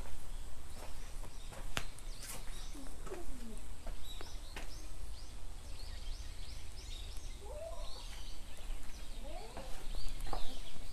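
Birds chirping: many short, high calls overlapping throughout, with a few lower sliding calls near the end, over a steady low rumble.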